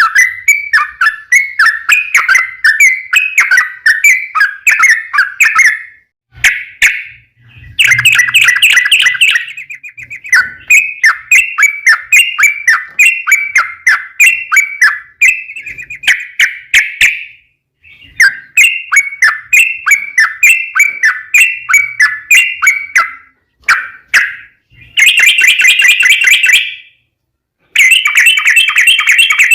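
Yellow-vented bulbul (trucuk) singing loudly: phrases of quick, bubbly chirping notes a few seconds long with short breaks between them, turning into fast rolling trills near the end.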